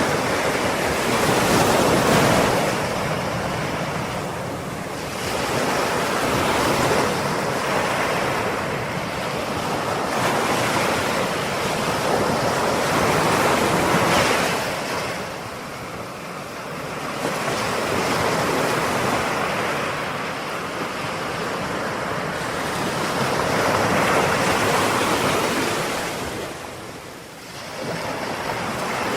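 Ocean waves breaking and washing on the shore, a steady rush that swells and eases every few seconds as each wave comes in.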